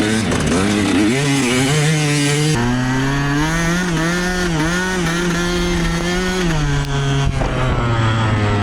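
Yamaha YZ125 two-stroke dirt bike engine revving while riding. The pitch wavers up and down at first, climbs higher about two and a half seconds in and is held there with small dips, then falls back near the end.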